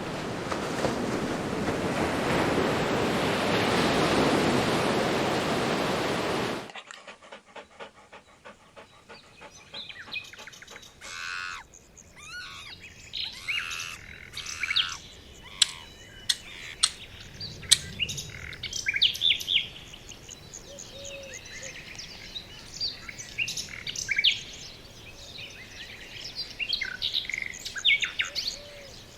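A loud, steady rushing noise cuts off abruptly about seven seconds in. Rapid ticking follows, then birds chirping and calling in many short, high notes, with sharp clicks among them.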